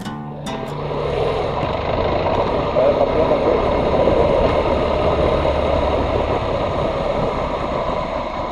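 Motorcycle running steadily while riding, a dense even mix of engine and road noise.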